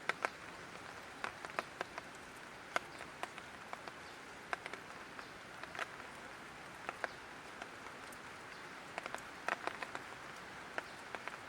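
Light rain falling: a steady soft hiss with irregular, sharp individual drops striking a hard surface.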